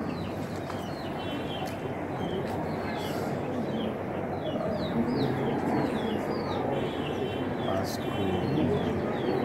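Small birds chirping over and over, short falling chirps several times a second, over steady outdoor background noise.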